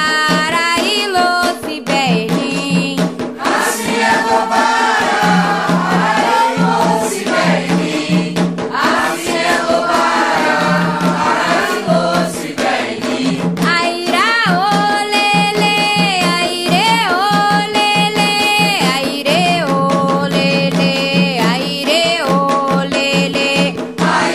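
Candomblé chant for Xangô sung by a chorus of voices over percussion.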